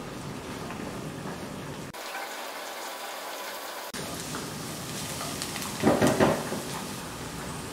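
Sliced onions and chopped garlic sizzling gently in oil in a nonstick wok on a low flame, with a spatula stirring and scraping them in a few louder strokes about six seconds in.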